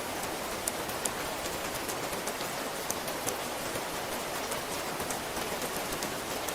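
Steady rain, with many individual drops landing close by as sharp, irregular ticks over an even hiss.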